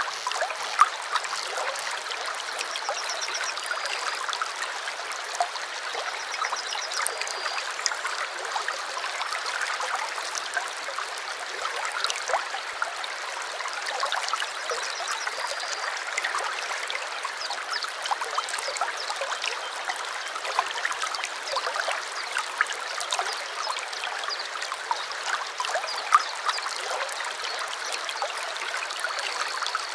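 Shallow stream babbling and trickling over stones, steady throughout. A few short, high bird calls come in now and then, a few seconds in, around the middle, and near the end.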